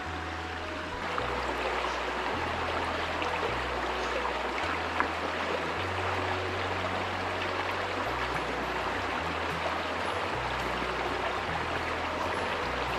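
A stream rushing steadily, under a background music track whose low bass notes change about once a second.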